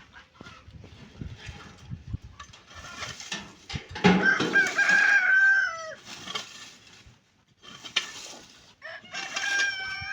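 Rooster crowing: one long call about four seconds in, its pitch dropping at the end, and a second crow beginning near the end, with chickens clucking in between.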